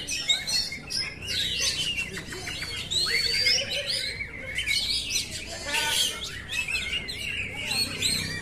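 Oriental magpie-robin (kacer) singing a continuous, varied song of whistled notes, rising and falling glides and quick trills.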